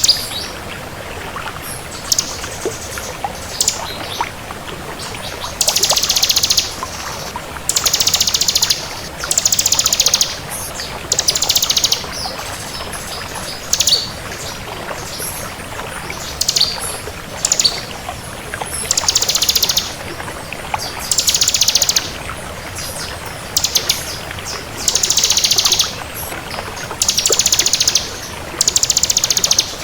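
Bar-winged prinia (ciblek kristal) singing: loud, high, rapid trills about a second long, repeated every one to two seconds with short chirps between them, over a steady background hiss.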